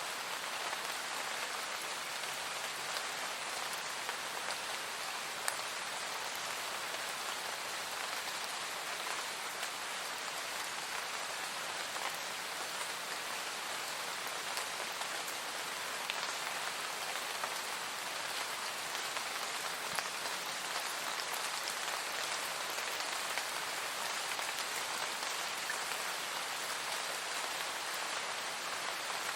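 Steady rain falling, an even hiss with the odd louder drop standing out.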